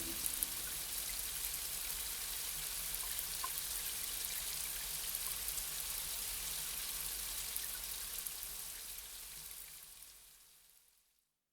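Steady rain, an even hiss with scattered faint droplet ticks, fading out to silence over the last few seconds. A soft musical tone dies away just as it begins.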